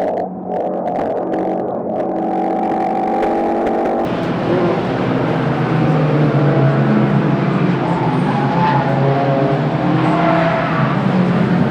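Racing car engine running at high, steady revs. About four seconds in the sound changes abruptly to engine notes that rise and fall in pitch as the revs change.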